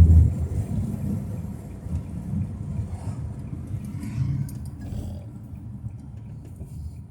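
Low rumble of road and wind noise from a moving car. It is loudest at the start and eases off as the car slows for a pull-off.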